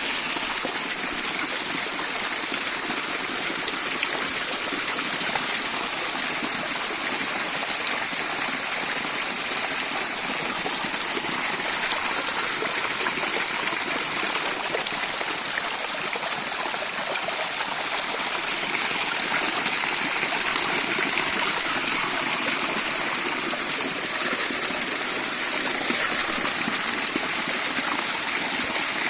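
A stream flowing over rocks, a steady rushing and babbling of water.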